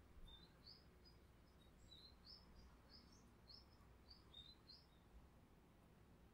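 Faint bird chirping: a quick run of short, high chirps that stops about five seconds in, over near-silent room tone.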